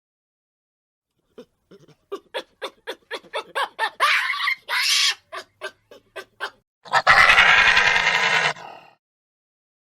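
A dog barking in a quick run of short, sharp barks, about three a second, then a loud, harsh, rasping animal sound lasting about a second and a half.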